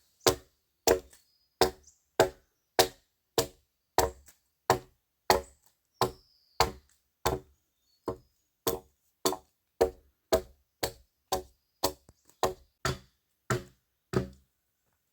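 Steady rhythmic chopping into wood with a hand tool, about one and a half to two blows a second, stopping shortly before the end.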